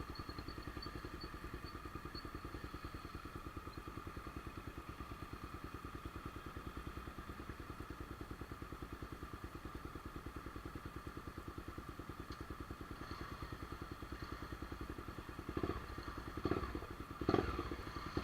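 Single-cylinder engine of a Honda CBX 250 Twister with a straight-pipe exhaust idling steadily with an even pulse. A few louder bursts come near the end.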